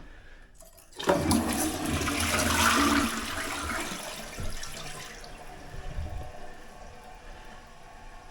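Newly installed Glacier Bay Power Flush two-piece toilet flushing. A sudden rush of water starts about a second in and stays loud for about four seconds, then fades to a quieter steady hiss of running water.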